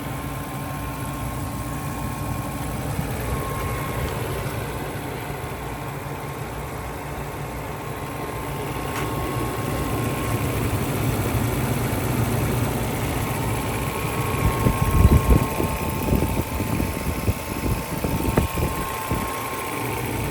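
1998 BMW 750iL's 5.4-litre V12 idling smoothly and steadily at about 550 rpm, fully warmed up, with a thin steady whine above the hum. Near the end come a few seconds of irregular low thumps.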